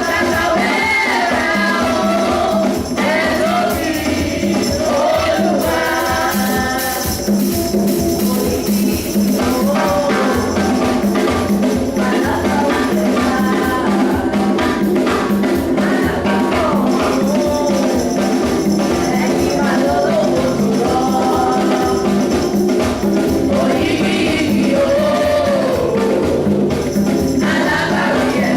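Gospel music: a choir singing over a steady rhythmic beat with tambourine.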